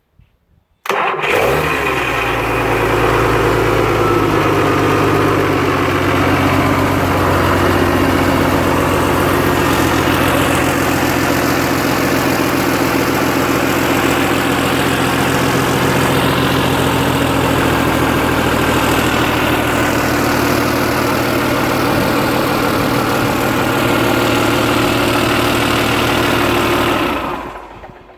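Mercedes OM 444 LA V12 turbodiesel engine starting about a second in, speeding up briefly, then running at a steady idle. It is shut off near the end and dies away.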